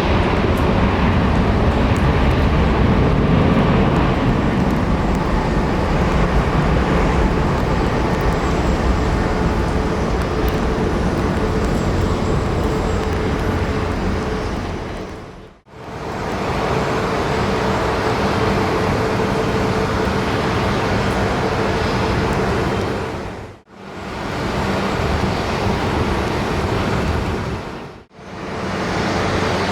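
Jet airliner engines running, a steady rushing noise with a faint steady hum. The sound cuts out briefly three times, about halfway through and twice near the end.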